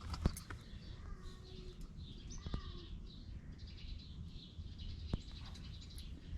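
Birds chirping in the background, with a few sharp clicks, about three over the stretch.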